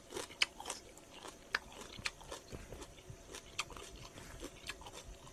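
A person chewing a mouthful of crunchy raw vegetables and spicy salad close to the microphone, with irregular crisp crunches and wet mouth clicks.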